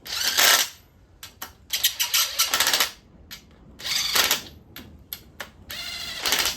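Impact wrench snugging down bolts in four short bursts of rapid hammering, with a few single clicks between the bursts.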